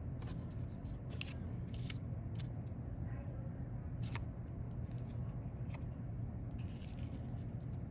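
Glue stick being rubbed across paper and the paper handled, with scattered light ticks and rustles over a steady low background hum.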